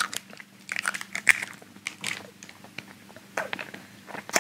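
Mouth noises of a man working two Warheads sour hard candies in his mouth: irregular wet clicks and crunches of chewing and biting on the candy.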